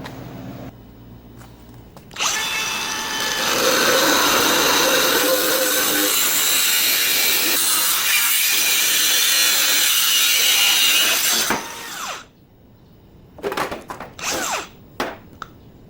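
Power tool cutting into the steel frame of a furrow-making machine, running steadily for about nine seconds and then stopping. A few short bursts follow near the end.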